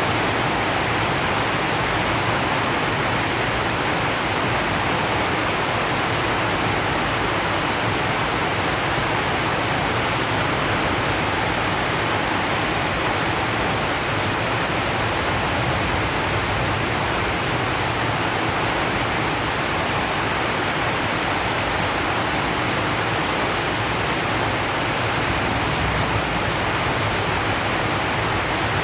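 Steady rain on a corrugated zinc roof: a dense, even hiss.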